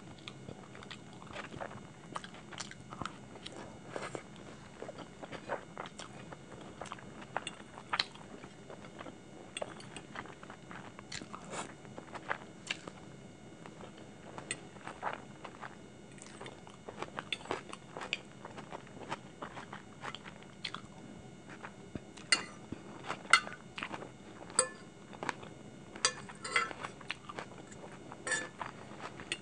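Close-miked chewing of saucy chicken Manchurian and Hakka noodles, with many short sharp clicks that come louder and closer together in the last several seconds.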